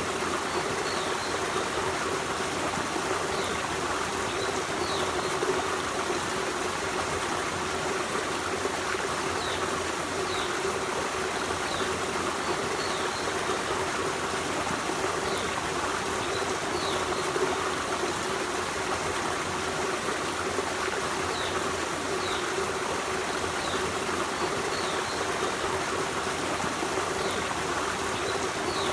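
Forest stream running steadily, with short high chirps every second or two.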